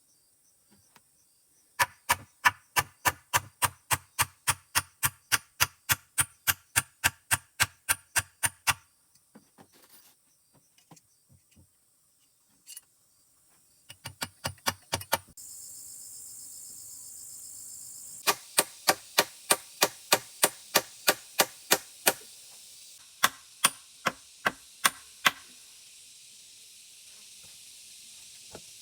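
Rapid chopping, about three to four sharp strikes a second, in three runs with pauses between. A steady hiss comes in about halfway.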